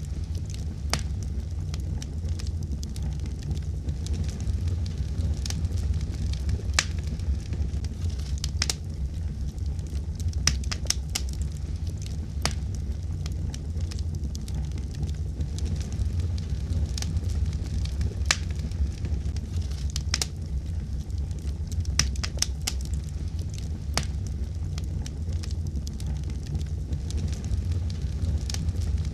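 Fire burning in a fireplace: a steady low rumble of flame with sharp, irregular crackles and pops, some coming in quick clusters.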